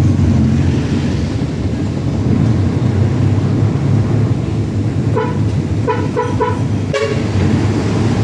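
Heavy truck engine running steadily, with short horn toots: one just past five seconds in, then three quick ones.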